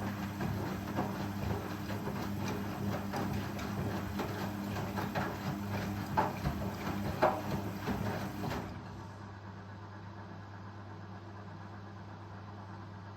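Indesit Ecosense washing machine running, with a steady motor hum and irregular knocks and rattles from the drum. The rattling stops about nine seconds in, leaving a quieter steady hum.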